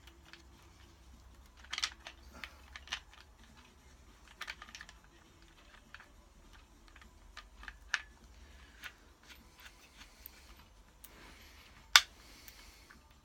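Scattered sharp clicks and taps of parts being handled and fitted by hand around the timing chain of a Porsche 911 SC engine under rebuild, with one louder click near the end.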